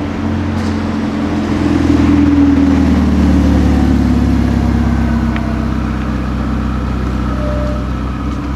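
A car engine running at low revs with a steady low note, growing louder about two seconds in and then slowly easing off.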